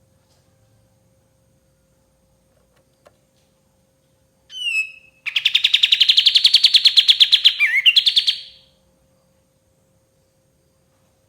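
Kapas tembak songbird singing: a short falling call about four and a half seconds in, then a fast, rapid trill of about eight notes a second lasting some three seconds.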